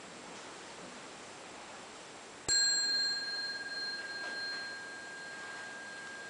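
A bell struck once about two and a half seconds in, then ringing on in a slowly fading tone, still sounding at the end. It is the single opening bell of a chanting session, rung so the listeners can follow its sound until it dissolves.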